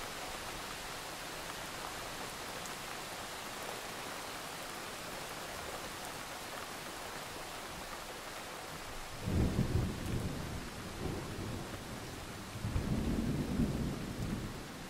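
Steady hiss of rain falling. Two low rumbles break in, about nine seconds in and again about twelve seconds in, each lasting a second or two.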